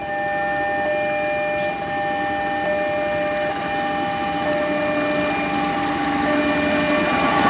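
A train approaching, with several steady tones held together throughout and faint sharp clicks now and then. It grows louder near the end.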